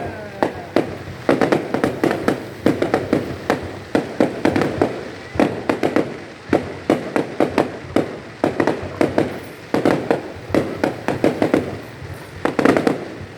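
Fireworks going off in a dense barrage: rapid, sharp bangs and crackles that come in clusters roughly a second apart, several bangs to each cluster.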